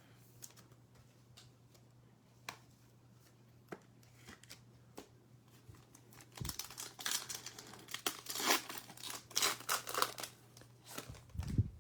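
A few light clicks of card handling, then from about six and a half seconds in a trading-card pack's wrapper being torn open and crinkled in a quick run of rasping bursts.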